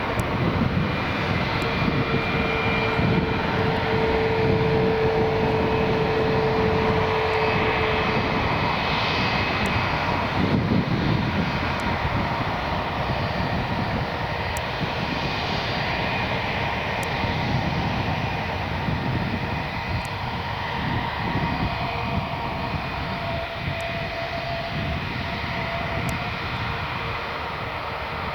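Jet airliner engines heard as the plane moves past the airfield: a dense, steady rush with held whining tones. It is loudest in the first ten seconds or so, then slowly fades.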